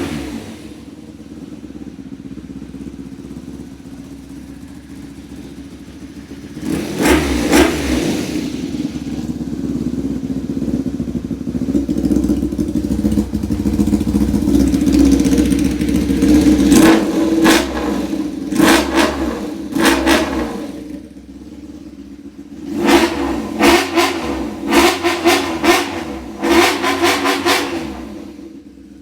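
Honda VF400F's V4 engine through a 4-2-1 exhaust with straight pipe, idling and being revved up in throttle blips: a sharp rev about seven seconds in, revs held up for several seconds, then a quick run of blips before it drops back to idle near the end.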